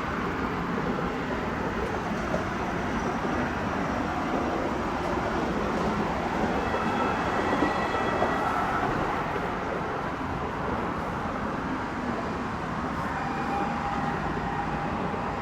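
A train rolling past: a steady rumble of wheels on rail, with faint high squealing tones now and then.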